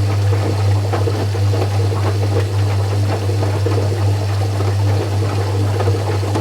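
Zanussi FC1000 compact washing machine's drain pump running with a loud, steady mains hum, light rattles and ticks over it as it pumps out water.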